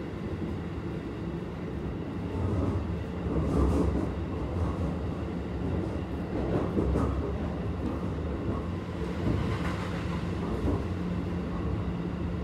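Keikyu 1000 series stainless-steel electric train running at speed, heard from inside the car: a steady rumble of wheels on rail that swells for a few seconds in the middle. Near the end an oncoming train passes on the next track.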